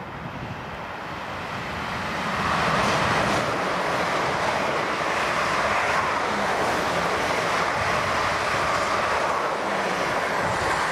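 Class 444 Desiro electric multiple unit, two units coupled, passing through the station at speed: a steady rushing roar of wheels on rail and air that builds over the first two seconds and then holds.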